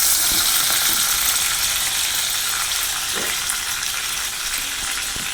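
Chicken strips and chopped brassica leaves sizzling steadily as they sauté in hot oil in a pan, a dense hiss that eases a little toward the end.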